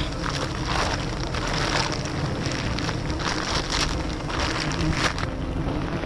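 Wind rumbling on the microphone, with uneven short bursts of hiss about once or twice a second.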